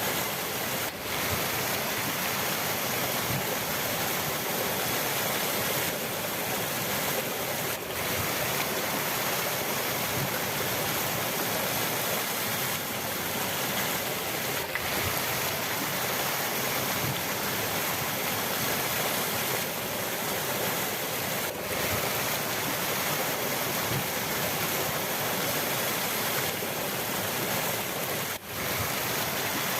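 River water rushing steadily, dipping in level for a moment about every seven seconds.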